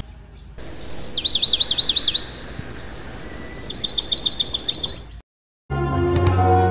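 A small bird singing: a short high whistle, then two quick runs of rapid, repeated high notes, over a faint steady hiss. It cuts off suddenly, and after a brief silence background music starts near the end.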